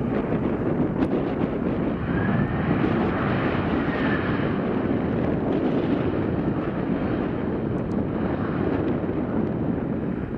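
Jet airliner engine noise mixed with strong wind buffeting the microphone, a steady rushing noise, with a faint whine rising and then falling about two to four seconds in.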